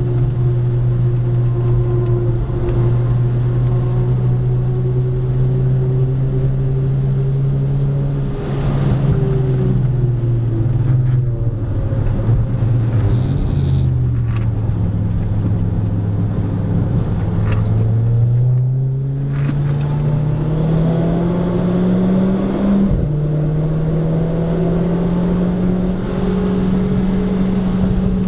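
Renault Clio RS IV's 1.6-litre turbocharged four-cylinder engine driving hard: the engine note holds steady for several seconds, then falls in pitch as the car slows. It climbs again under acceleration, drops sharply once at an upshift, and climbs again near the end, with a few short clicks in the middle.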